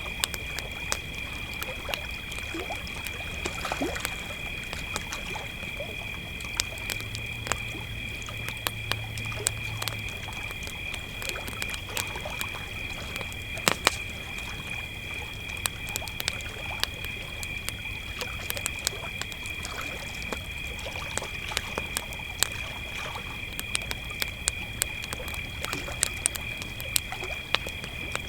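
Crickets trilling steadily at a high, even pitch over a campfire crackling with frequent small pops, one sharper pop about 14 seconds in.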